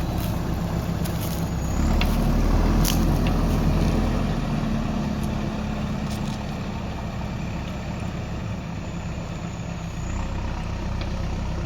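Heavy diesel machinery engine running steadily. It grows louder about two seconds in and eases back after about four seconds, with a few short metallic clanks in the first few seconds.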